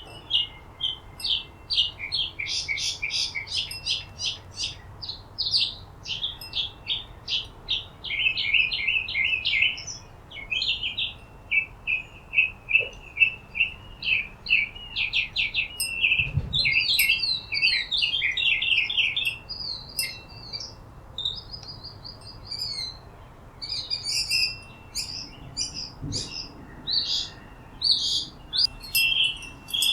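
Small birds chirping and twittering, with quick runs of short high chirps following one another almost without a break.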